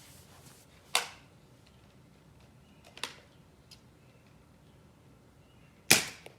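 Sharp snapping shots from a spring-powered Nerf Rival Knockout foam-ball blaster and the balls striking their targets: one about a second in, a fainter one around three seconds, and the loudest near six seconds.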